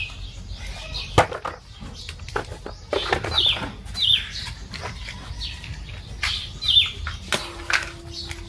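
A bird calling with short, high, falling chirps, several times over, amid sharp clicks and scratches from dry twigs and matches being handled at a clay stove as the fire is lit.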